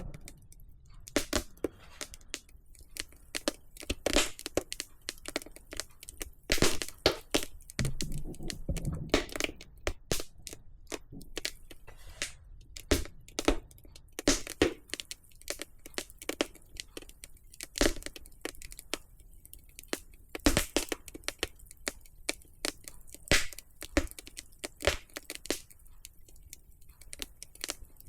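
Wood fire burning in a fireplace, crackling and popping irregularly with many sharp snaps.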